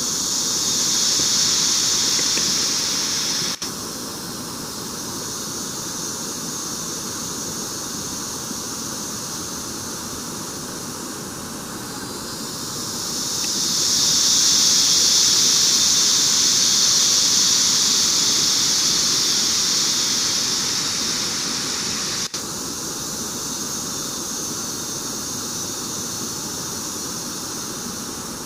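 Insects buzzing in a high, steady shrill band over a constant background hiss of forest ambience. The buzz swells over a few seconds and stops suddenly, twice: shortly after the start and again past the middle.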